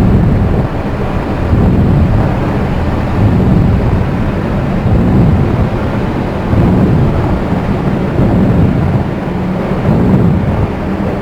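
Dark ambient electronic drone-noise music: a loud, dense low rumble that swells and ebbs every second or two, with no beat or melody.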